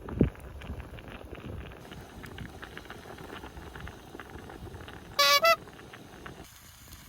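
Steady crackling with many small snaps, likely from the campfire. About five seconds in come two short, loud, honk-like notes in quick succession, the second slightly higher than the first.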